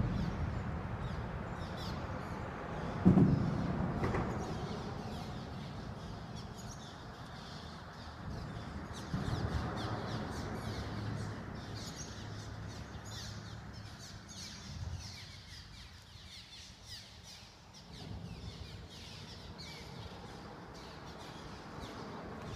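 Many birds calling outdoors, a dense run of short high chirps throughout, over a low rumble. A single low thump comes about three seconds in.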